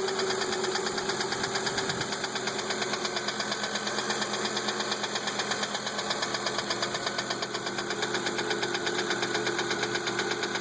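Volvo 850's 2.4-litre low-pressure-turbo five-cylinder engine idling with a rapid, even knock. The cause of the knock is unknown to the owner.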